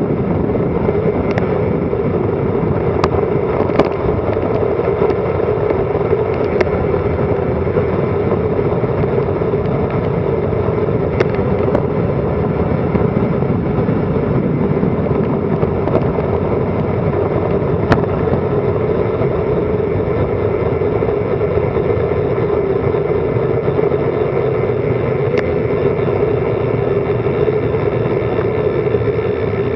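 Steady rush of wind over a Garmin Virb Elite action camera on a bicycle speeding downhill, with occasional sharp clicks.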